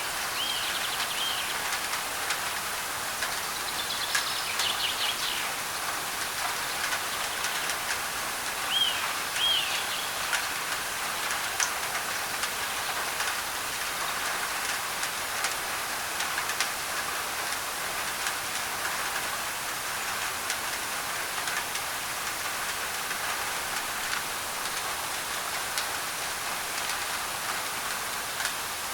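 Rain on a thin tin roof, mixed with white noise: a steady hiss broken by many small sharp drop ticks. A bird calls in short arched notes near the start, again around four to five seconds in, and about nine to ten seconds in.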